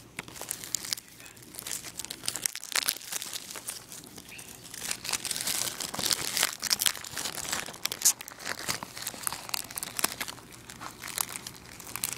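Plastic shrink-wrap on a Blu-ray case crinkling and tearing in irregular crackles as it is picked at and peeled off, with a sharper snap about eight seconds in.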